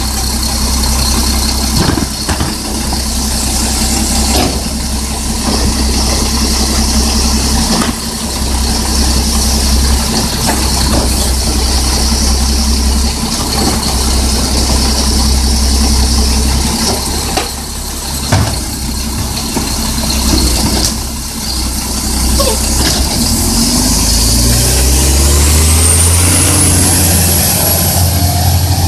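Garbage truck engine running at idle, then revving up steadily about three-quarters of the way through, with a high whine rising alongside it.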